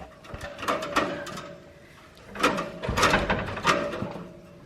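A series of clattering knocks and rattles in two bursts, the second longer and louder, over a faint steady tone.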